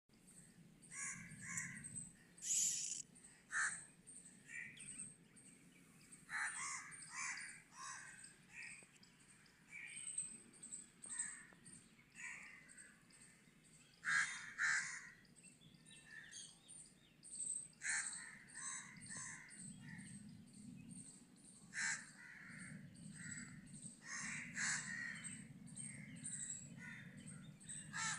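Birds calling: short calls one after another, sometimes several in a second, over faint outdoor background noise.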